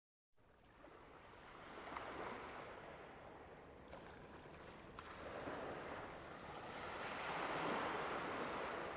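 Faint outdoor rushing noise, like moving water or wind, swelling about two seconds in and again more broadly from about five seconds on.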